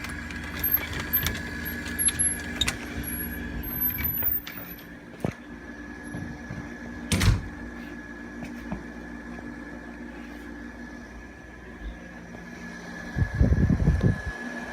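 Hampton Bay 12,000 BTU window air conditioner running with a steady hum, under scattered clicks and knocks, with a loud knock about seven seconds in. The low part of the hum drops out about ten seconds in, while the owner is stepping through its fan speeds.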